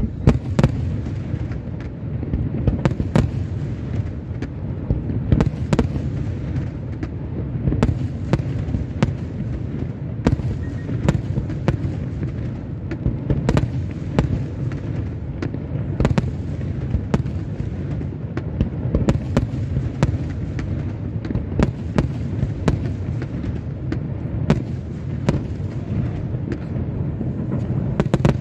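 Aerial fireworks display with shells bursting in quick succession: a continuous deep rumble broken by frequent sharp cracks and bangs.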